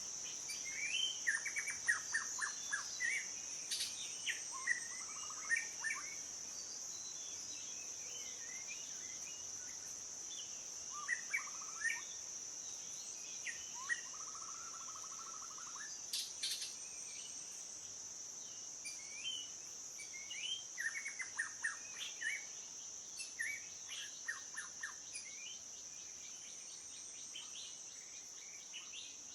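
Wild birds chirping and singing in short scattered phrases and quick trills, over a steady high-pitched insect trill that runs unbroken underneath.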